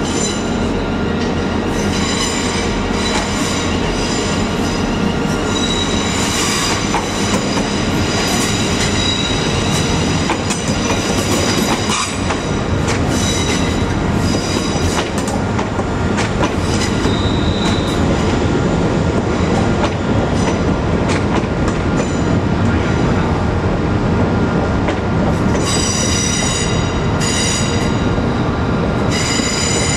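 Class 350 electric multiple unit running over curved station track with a steady rumble, its wheels squealing on and off in high ringing tones. Near the end a Class 170 diesel multiple unit passes, and the squeal grows louder and more continuous.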